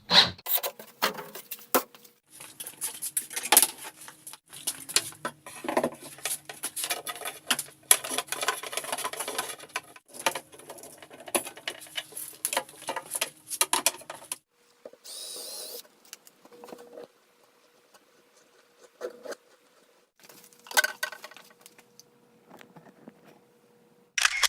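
Workshop handling noise: a busy run of light clicks and knocks, a short hiss about fifteen seconds in, then a few scattered clicks.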